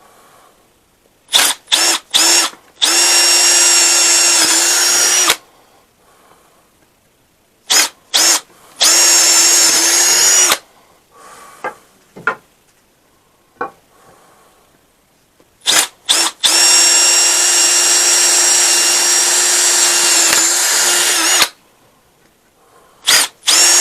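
Electric drill boring holes with a 7mm bit: four times over, a few short trigger blips, then a steady run at constant speed for a few seconds. The bit is cutting slowly, which the user puts down to having dulled it on metal on an earlier job.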